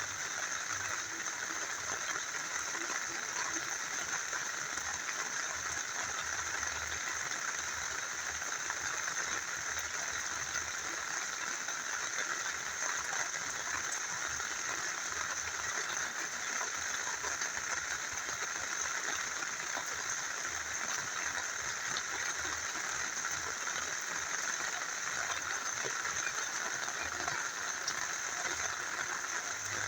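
Rain falling together with a small river flowing: a steady, even hiss of water with no pauses.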